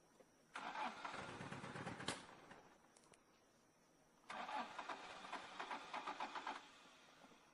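A car engine is cranked by its starter twice, each try lasting about two seconds with a pulsing rhythm. It stops each time without running on: the car won't start.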